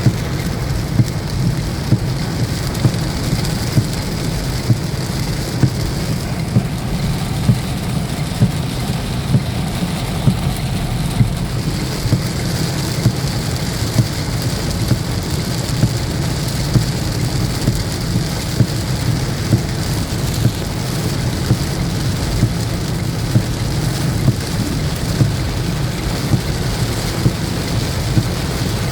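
Heavy monsoon rain falling steadily, a dense hiss with a strong low drumming on a surface. A short, regular knock sounds about once a second throughout.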